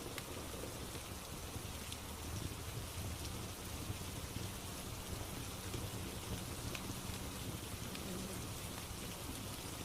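Steady rain, with a low rumble and a few scattered faint crackles from a wood fire.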